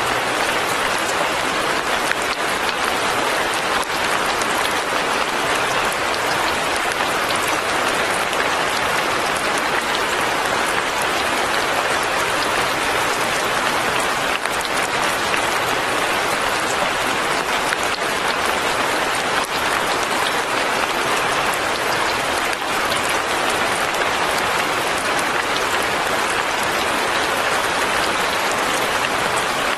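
Fine rain falling steadily: an even hiss of many small drops, with the odd sharper tap.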